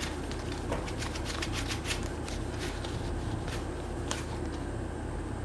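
Hands rubbing and wiping the rubber inner shell of a leather-finish phone flip case to clean it: a continuous run of quick, dry scratchy rustles, with a steady low hum underneath.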